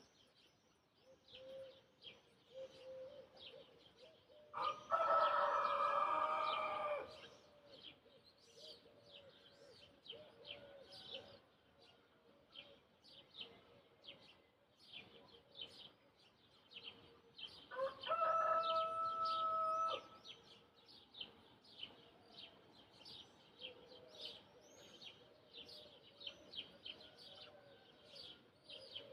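A rooster crowing twice, each crow about two seconds long, over steady fast chirping of small birds.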